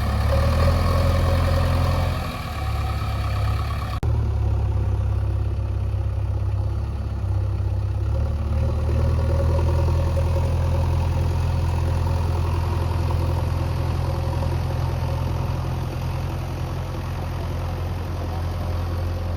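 Heavy diesel engine of a backhoe or tractor running steadily at low revs, dipping briefly about two seconds in and picking up slightly around eight seconds in.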